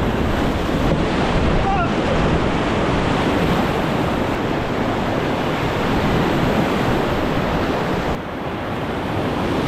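Whitewater river rapids rushing steadily around a raft, with wind buffeting the microphone.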